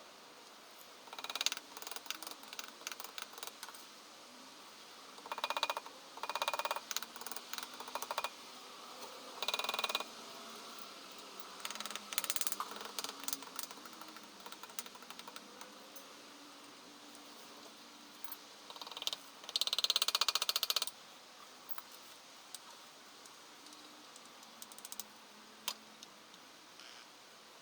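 Intermittent clicking and rattling of handled hard objects, in several short bursts, the longest about two-thirds of the way through.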